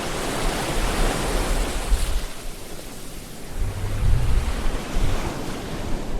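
Sea waves breaking and washing on the shore: a wash of surf that ebbs about halfway through, then builds again with a low rumble as the next wave comes in.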